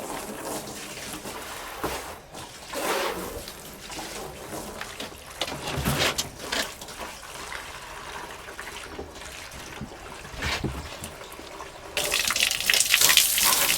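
Liquid trickling with a few scattered knocks and rustles; about twelve seconds in, a louder steady rush of pouring water starts abruptly.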